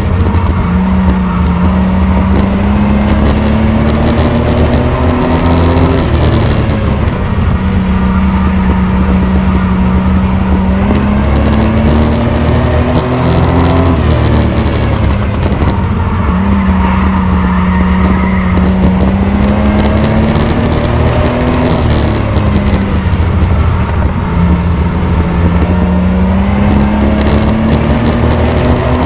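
Race truck engine running at racing speed. Its pitch climbs steadily for several seconds, then drops sharply, over and over, as it accelerates down each straight and lifts for the turns. Heavy road and wind noise underneath.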